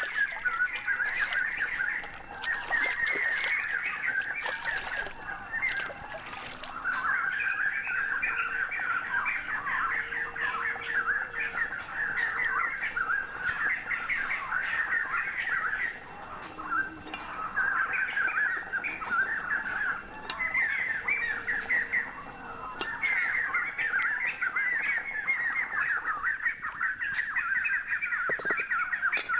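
Birds chattering in repeated bursts of quick, high calls, each burst lasting a few seconds with short gaps between.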